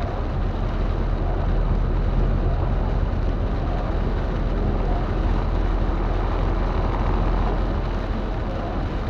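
A car driving in heavy rain: a steady low rumble of engine and tyres on the wet road, under the hiss of rain.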